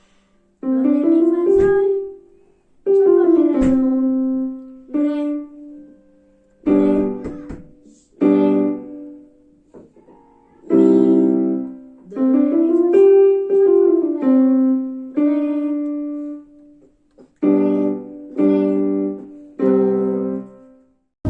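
Piano played in short phrases of a few notes, each left to ring and fade before a brief pause, ending with three block chords struck about a second apart.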